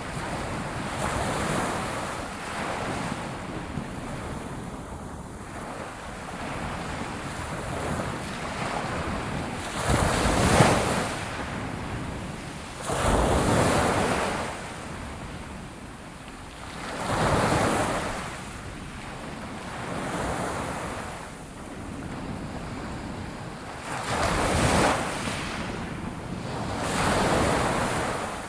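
Ocean waves breaking on a shore, a steady wash of surf that swells into a louder break every three or four seconds.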